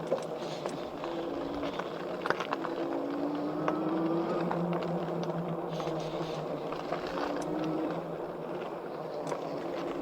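E-bike electric motor whining steadily, its pitch rising and falling gently with speed, over tyres rolling on dirt and rocks with scattered clicks and rattles.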